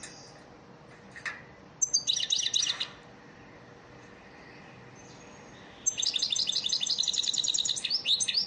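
European goldfinch singing: a brief twittering phrase, then after a pause a longer run of quick, high twitters and trills near the end.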